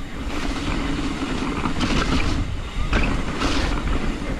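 Hardtail mountain bike riding down a muddy dirt trail: continuous tyre and wind rumble on the camera microphone, with irregular rattles and clatter as the bike goes over bumps.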